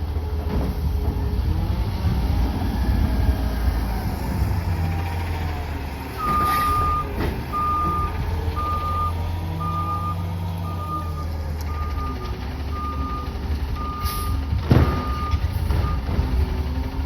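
CNG Peterbilt 520 garbage truck running, its reverse alarm starting about six seconds in and beeping at one steady pitch about once a second until near the end. A couple of sharp short noises come near the last beeps.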